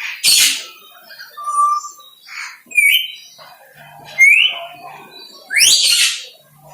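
Several birds calling: a string of loud squawks and short whistles about a second apart, several sweeping up in pitch, the loudest near the end.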